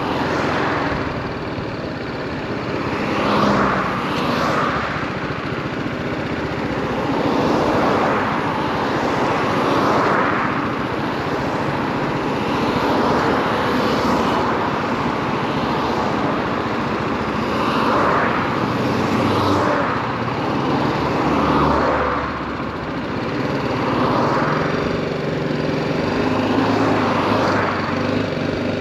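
2018 BMW G310R motorcycle's single-cylinder engine running on the move, its pitch stepping up and down with the revs, under a steady rush of wind noise that swells every few seconds.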